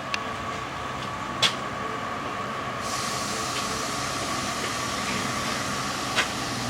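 Akasawa forest railway train making a steady mechanical running noise with a thin steady whine, broken by three sharp metallic clanks.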